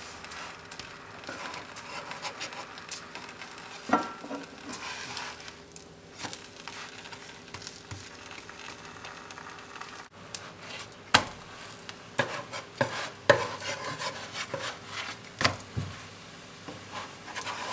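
Meat-filled flatbread pockets sizzling in oil in an electric skillet on high heat, with a wooden spatula scraping and pressing on them. In the second half there are several sharp knocks and taps as the pockets are handled in the pan.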